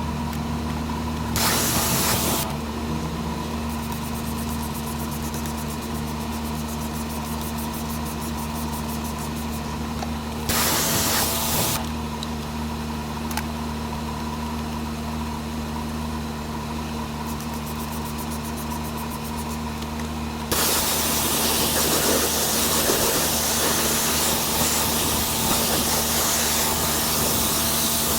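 Pressure washer running steadily with a low hum. Its spray hisses in two short bursts, then continuously from about two-thirds of the way in.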